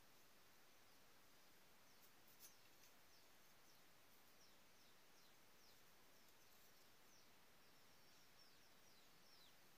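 Near silence with faint bird chirps: many short, high, falling chirps repeating from about two seconds in, with a faint click about halfway through the first third.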